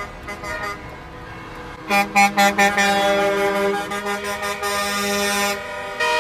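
Truck air horns honking: a few quick short blasts about two seconds in, then long overlapping blasts of several pitches at once, with another steady horn starting near the end.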